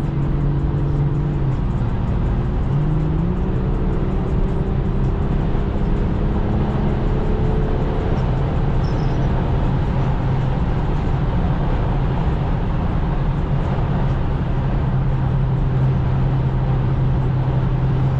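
BMW M240i's turbocharged straight-six engine running under way, with steady tyre and road noise heard from inside the car; the engine note rises about three seconds in and settles back down a few seconds later.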